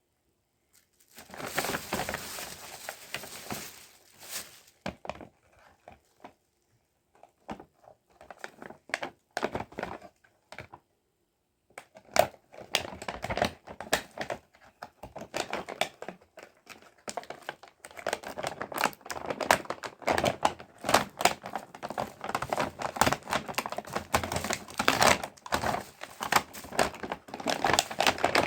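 Packaging being crinkled and torn by hand, as when unwrapping a new toy. It comes in bursts at first, then crinkles almost without pause from about halfway through.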